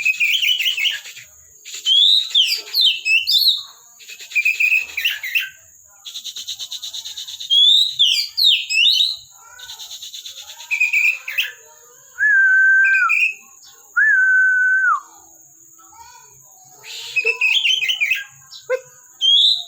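Oriental magpie-robin (kacer) singing vigorously: loud bursts of rapid, varied whistled phrases with short pauses between them, and two long, steady, lower whistles near the middle.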